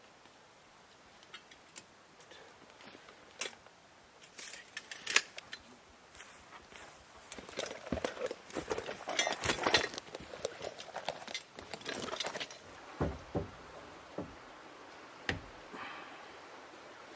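Carpentry handling noise: scattered knocks and clicks of lumber and tools, with a busier stretch of clattering in the middle and a few dull thumps near the end.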